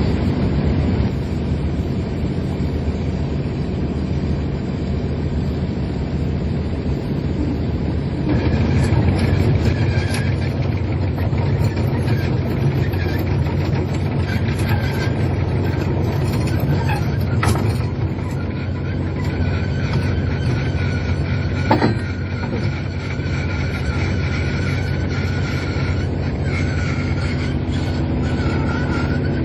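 Fishing boat's engine running steadily, heard on board, getting louder about eight seconds in. A couple of sharp knocks stand out, the louder one about twenty-two seconds in.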